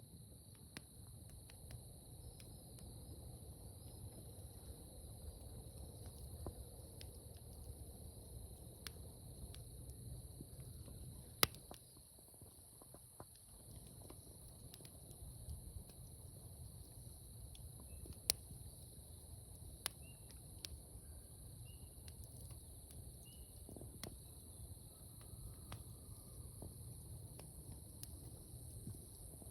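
Wood fire crackling, with a low steady rumble of the flames and scattered sharp pops, a few of them louder.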